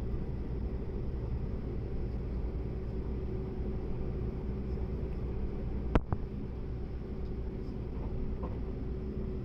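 Steady running rumble heard inside the cabin of a Seibu Laview limited express train in motion, with one sharp knock about six seconds in.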